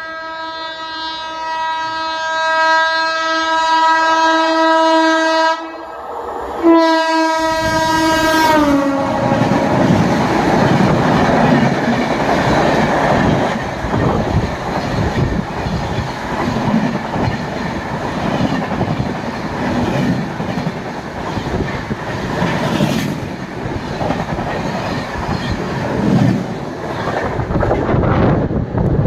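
Train horn sounding as the train passes: a long steady blast, a short break, then a second blast whose pitch falls as the train goes by. The horn gives way to the loud rumble and clickety-clack of the wagons rolling past.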